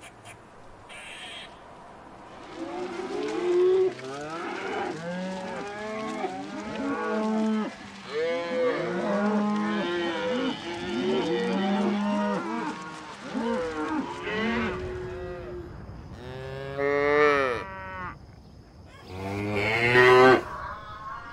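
A herd of cattle mooing, many calls overlapping one another. Later come two louder single moos, a couple of seconds apart, near the end.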